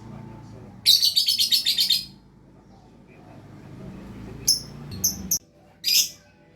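Lovebird chattering: a rapid, buzzy trill lasting about a second, then four short, high calls in the second half.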